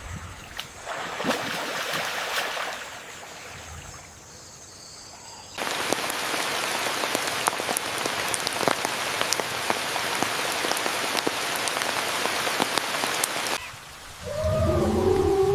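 Rain falling, with separate drops ticking. It eases off about three seconds in, comes back suddenly heavier and denser about five and a half seconds in, and cuts off sharply near the end. Low, sliding, wavering tones then begin.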